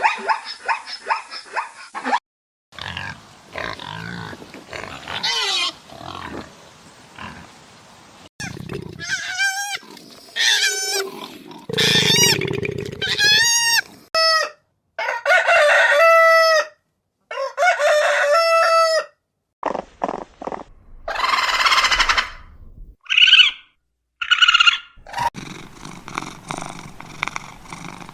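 A run of short farm-animal calls cut one after another: chickens, with rooster crows, and a pig grunting about halfway through.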